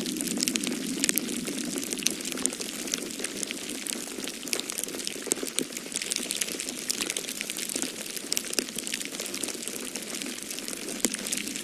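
Wood fire crackling in a fireplace, with many irregular pops and snaps over a steady low rush of wind.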